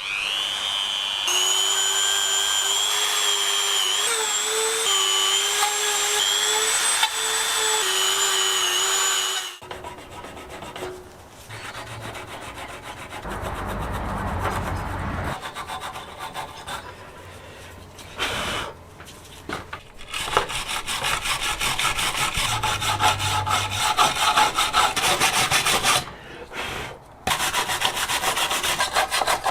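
A small electric motor runs with a steady whine that wavers slightly in pitch, then cuts off about nine seconds in. After it comes a long run of hand rubbing or scraping strokes, as in sanding or filing.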